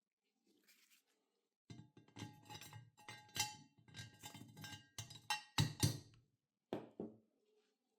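Metal parts clinking and knocking together in quick succession, some strikes leaving a short ringing tone. The loudest knocks come about two-thirds of the way through, and a last single knock follows about a second later.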